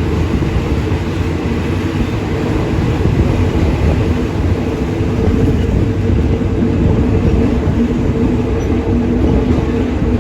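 Steady running noise of a moving passenger train heard from inside a carriage: a continuous low rumble of wheels on rail with a steady hum.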